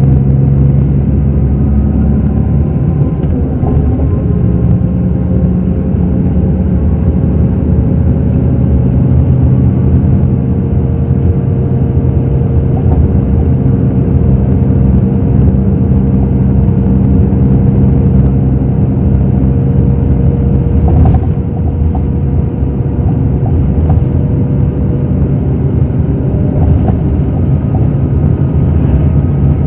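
Scania K360 bus's diesel engine running steadily under way, its pitch drifting slightly, with a brief knock about two-thirds of the way through.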